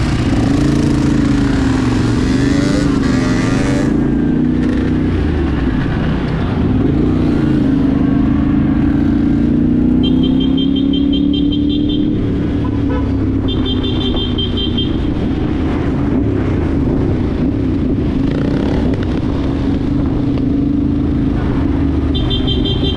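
Dirt bike engine running under way, its pitch rising and falling with the throttle. A high, rapid beeping sounds three times: about ten seconds in, again around fourteen seconds, and near the end.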